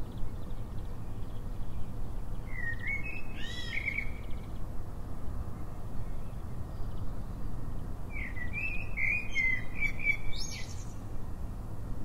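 A songbird sings two short warbling phrases, one about two and a half seconds in and another at about eight seconds. The second phrase ends in a rising twitter. Both sit over a steady low rumble.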